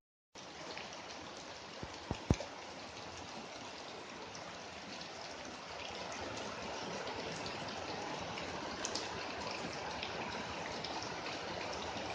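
Steady rain falling, growing a little heavier about six seconds in, with a few sharp knocks about two seconds in.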